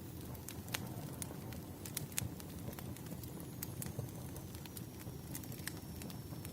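Bonfire crackling steadily, with frequent irregular pops and snaps over a low rumble of the flames.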